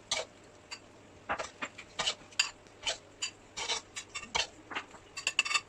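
A cooking utensil scraping and knocking against a pot in short, separate strokes, a quicker run of them near the end.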